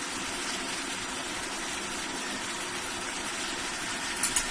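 Curry cooking in a pan, a steady hiss, with a short sharp click near the end.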